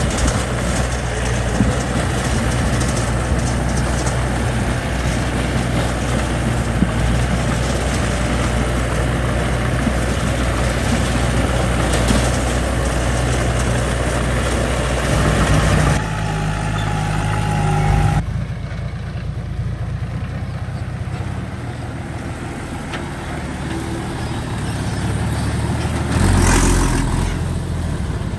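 Diesel engines of heavy construction machinery running steadily. About eighteen seconds in, the sound drops abruptly and becomes quieter, then swells briefly near the end.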